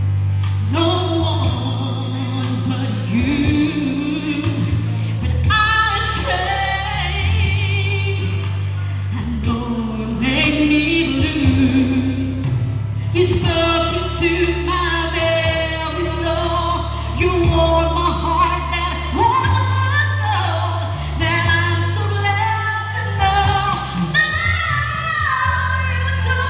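A woman singing a song over musical accompaniment with a steady bass line.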